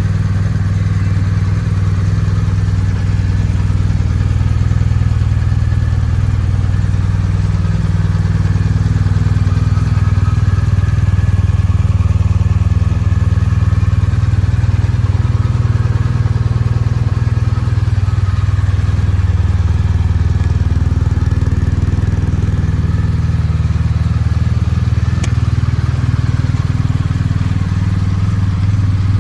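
BMW R1250RT's 1254 cc boxer twin engine idling steadily.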